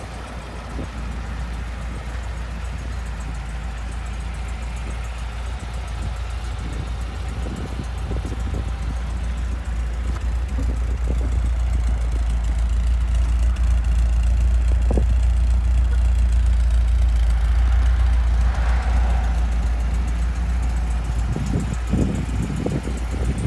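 1979 MGB's 1798cc four-cylinder engine idling steadily, its low exhaust note growing louder in the middle of the clip near the car's rear exhaust.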